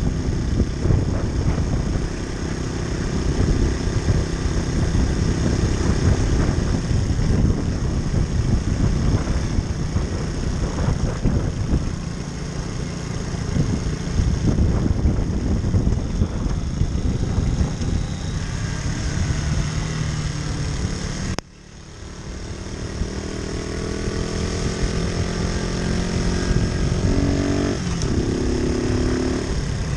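Moped engine running on the move, with heavy rumbling wind and road noise. Past the middle the sound drops out briefly, then the engine's pitch climbs in steps as it speeds up.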